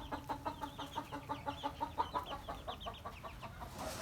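Chickens calling: a quick, steady run of short, falling peeps, several a second.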